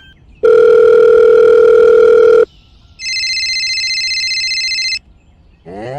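Two long, steady electronic beeps like a telephone tone, each about two seconds: first a low tone, then after a short gap a higher, brighter one.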